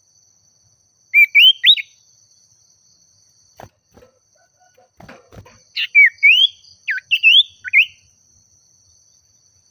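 Common iora singing two short bursts of clear, rising whistled notes, about a second in and again near the middle, over a faint steady high insect trill.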